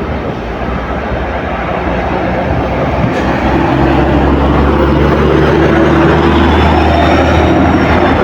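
Heavy vehicle's diesel engine running close by with traffic noise, a deep steady drone that grows louder about three and a half seconds in.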